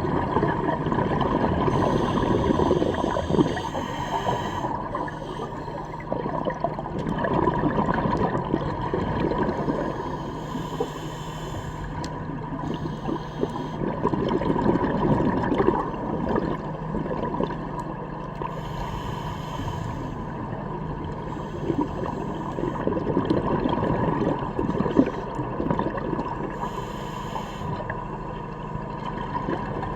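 Underwater recording: constant rushing, bubbling water noise with a steady hum underneath and brief patches of hiss every several seconds.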